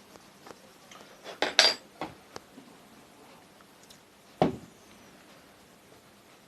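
Metal parts and hand tools clinking and knocking against each other during a motor repair: a quick cluster of clinks about a second and a half in, a couple of lighter ticks after, and one louder knock a little past four seconds.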